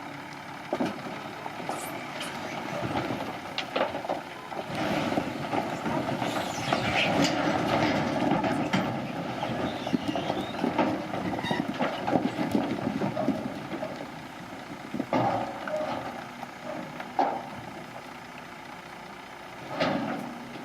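Heavy earthmoving machinery at work: a diesel engine running under load amid a steady clatter of metal and rock clanks and scraping. It grows louder a few seconds in, then eases off after about two-thirds of the way, with a couple of sharp clanks.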